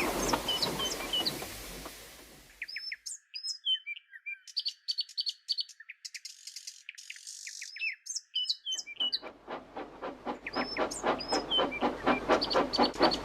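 Birds chirping and trilling. About nine seconds in, the rhythmic chuffing of a steam train fades in under the birdsong and grows louder.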